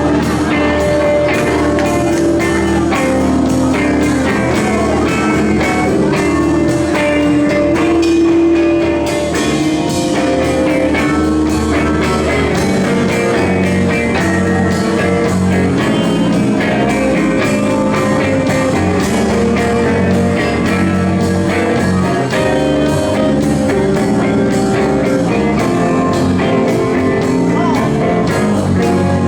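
Rock band playing an instrumental passage of a song, with guitar to the fore.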